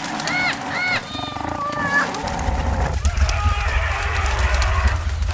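Two harsh, crow-like caws about half a second in, followed by thinner, higher calls. From about two seconds in a steady low rumble runs underneath.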